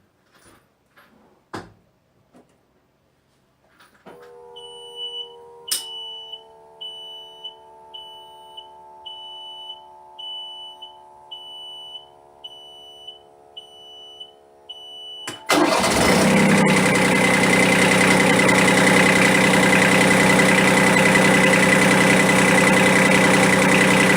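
A few clicks, then an electrical hum with a high beep repeating about once a second, typical of a marine engine panel alarm with the ignition on. About two-thirds of the way in, the Universal M25 three-cylinder diesel starts and runs loud and steady, then cuts off abruptly at the end.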